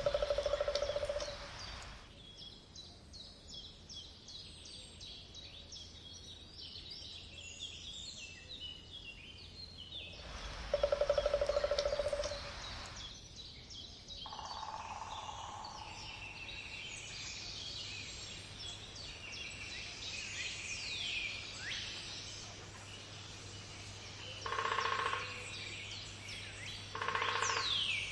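Woodpecker drumming in rapid bursts of about a second and a half, a loud one at the start and another about eleven seconds in, and two shorter ones near the end. A dense chorus of songbirds chirps and trills throughout.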